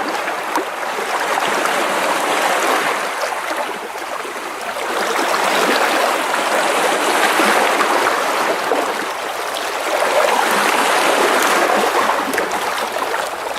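Small sea waves washing and splashing against rocks at close range, with trickling and gurgling water among the stones. The wash swells and eases in slow surges, a fuller swell about five seconds in and another about ten seconds in.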